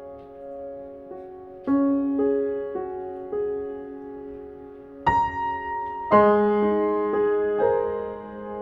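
Slow, gentle solo piano background music, single notes struck and left to ring, with fuller chords about six seconds in.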